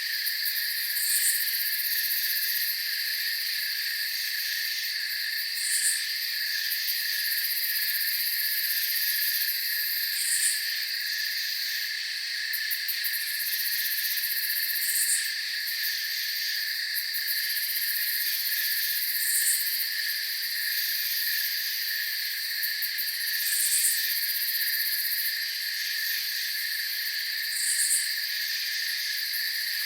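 Night insect chorus of crickets trilling steadily and high-pitched, with a short high chirp repeating about every four and a half seconds.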